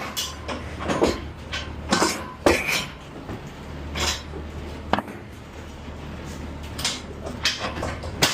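Irregular knocks and clanks of freight being shifted during unloading from a box truck, over a steady low hum from the idling truck.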